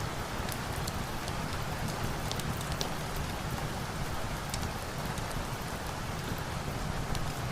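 Steady rain falling, an even hiss with scattered sharp ticks of individual drops or crackles.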